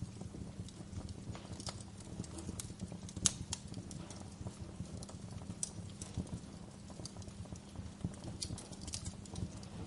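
Wood fire crackling in a fireplace: irregular sharp pops and snaps over a low steady rumble of flames, with one louder pop a few seconds in.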